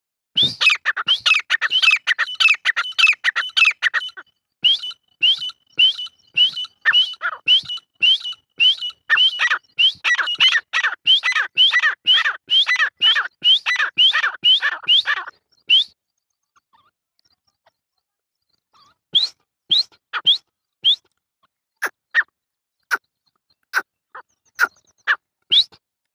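Grey francolin (desi teetar) calling: a fast run of short, sharp, rising notes, about three a second, that breaks off about 15 seconds in and resumes after a pause as sparser, spaced notes. This is the call used to lure francolins when hunting.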